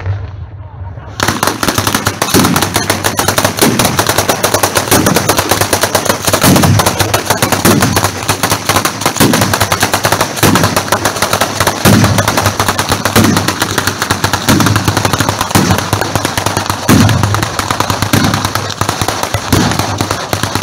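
Fireworks going off in a long unbroken rapid string of loud cracks, starting about a second in, with heavier thumps about once a second running through it.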